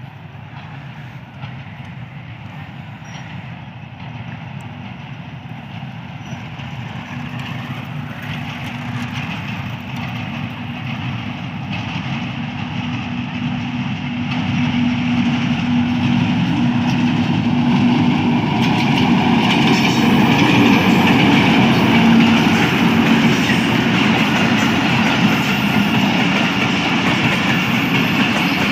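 HBU-20 diesel locomotive hauling an express train, approaching slowly and growing steadily louder, with a steady low engine note over the rumble of wheels on the rails.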